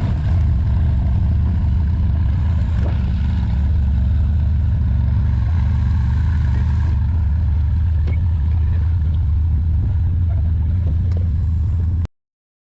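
Steady road and engine drone inside a moving vehicle's cabin at cruising speed. It cuts off abruptly near the end.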